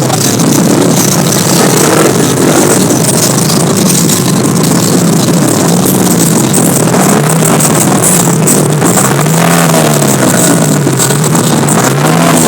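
Motorcycle engine running, its pitch rising and falling over and over, with a heavy rush of noise.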